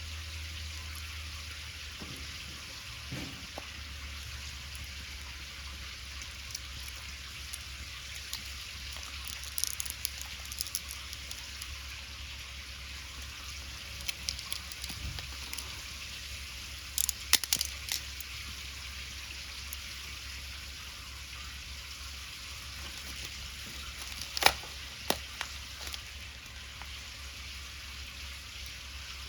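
Cooking over a wood fire: a steady hiss with scattered sharp pops and clicks. The loudest are a cluster of clicks about 17 seconds in and a single sharp pop about 24 seconds in.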